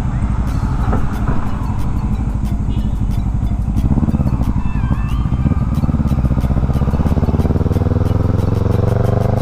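Motorcycle engine running while riding, with wind rumbling on the clip-on microphone; from about six seconds in the engine pitch rises steadily as the bike accelerates.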